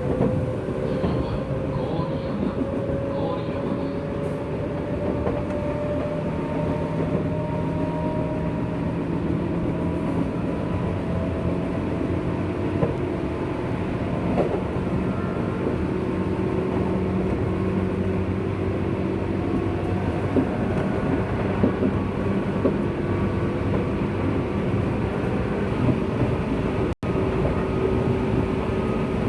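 JR West 201 series electric train running, with wheel and rail rumble under the whine of its thyristor-chopper traction motors. The whine rises slowly in pitch over the first several seconds and then holds steady at a few pitches. The sound cuts out for an instant near the end.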